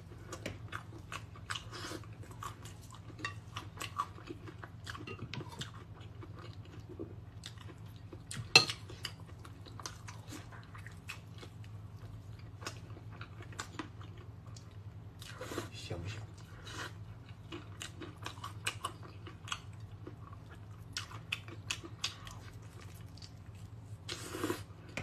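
Close-miked chewing and biting of meat: wet mouth clicks and smacks, with one sharp, louder click about eight and a half seconds in. A steady low hum runs underneath.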